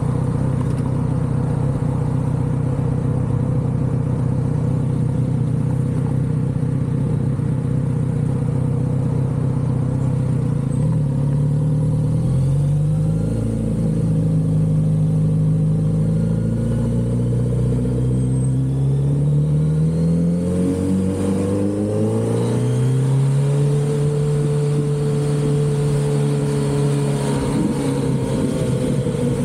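Kawasaki Z900RS inline-four engine through its stock exhaust, running at a steady pitch for about ten seconds, then rising and falling in steps as the motorcycle accelerates and changes gear.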